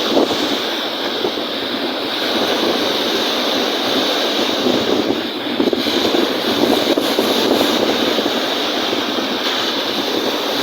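Steady rushing noise of strong wind and choppy lake waves.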